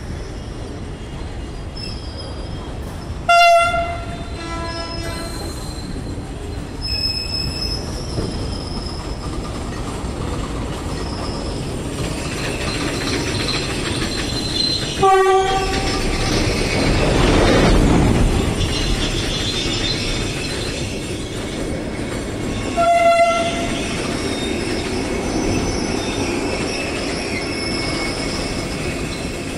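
Vande Bharat Express electric trainset rolling slowly past with steady running noise and some wheel squeal. Its horn gives three short blasts, a few seconds in, about halfway and about three quarters of the way through.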